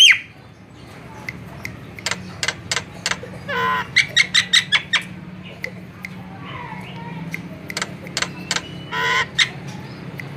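Javan myna (jalak kebo) calling: a string of short sharp clicks and chips, with two harsh, rasping calls about 3.5 s and 9 s in and a brief thin whistle just after 8 s. A steady low hum runs underneath.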